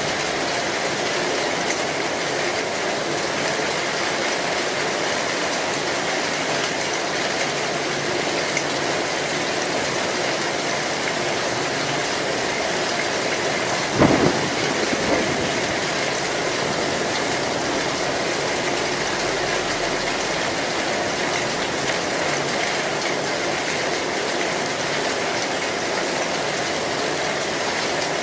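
Heavy rain falling steadily on a metal roof, with one sharp crack of thunder about halfway through and a smaller one just after.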